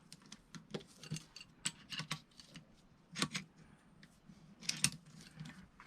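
Ratcheting wrench clicking in short, irregular runs on a 17 mm nut of a shock absorber's top mount, with a few louder metal clinks about three and five seconds in.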